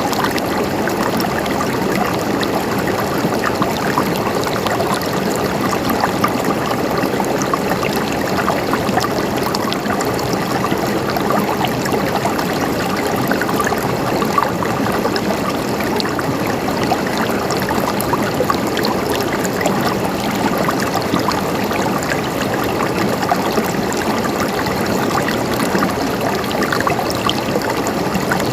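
Running water flowing and splashing steadily, with a dense mix of gurgles and small splashes.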